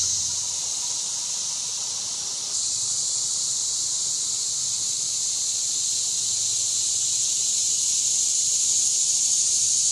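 Steady high-pitched chorus of insects in the woods, with a slight step up in level about two and a half seconds in.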